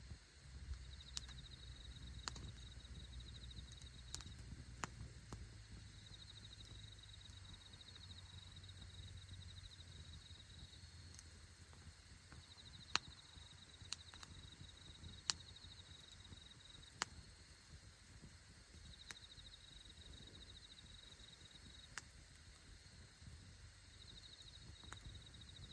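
Campfire crackling faintly, with scattered sharp pops of burning wood, several louder ones about halfway through. An insect trills high in the background, in bouts that come and go.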